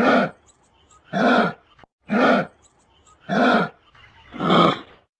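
Kangaroo calls: a short call repeated about once a second, five times.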